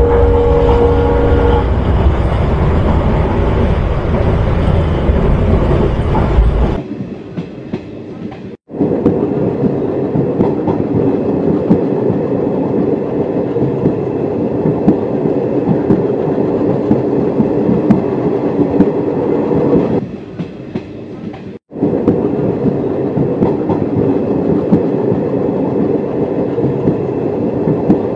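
Passenger train running along the track, heard from the train itself: a steady rumble of wheels and carriages with clickety-clack over the rail joints. A locomotive horn sounds steadily for the first second and a half. The sound drops abruptly to a quieter level twice, briefly each time.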